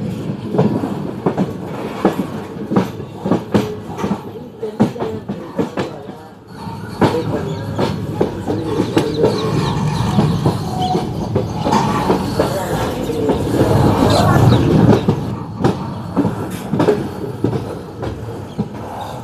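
Express passenger train running along the track, its wheels clicking over the rail joints at irregular intervals above a steady rumble.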